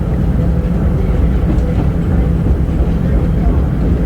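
Vintage R1-R9 New York City subway cars in motion: a steady low rumble of wheels on the rails and running gear.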